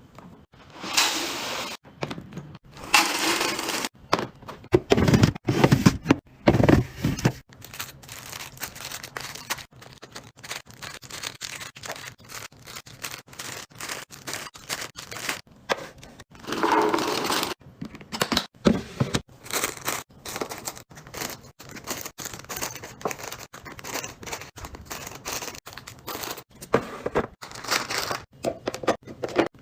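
Restocking sounds: plastic packaging crinkling and tearing in several bursts, among many quick clicks and knocks of items and containers being set down and handled.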